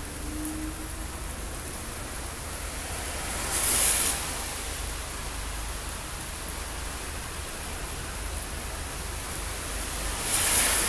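Rain falling steadily in a thunderstorm, an even hiss. It swells briefly louder and brighter twice, about three and a half seconds in and again near the end.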